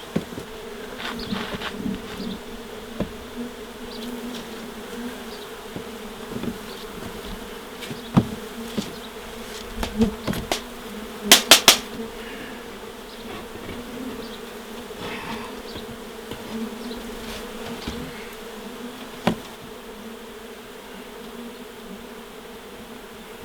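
Wild honey bee colony buzzing in a steady hum as its nest is taken apart. Scattered knocks from the work, with a quick run of three sharp clicks about halfway through.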